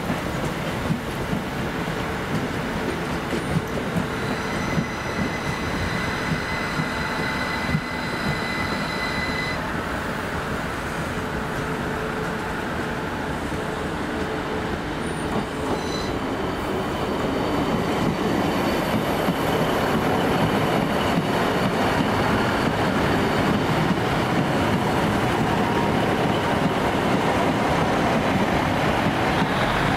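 A train moving at a station platform. A high, steady whine runs from about four seconds in to about ten, and the train grows louder in the second half.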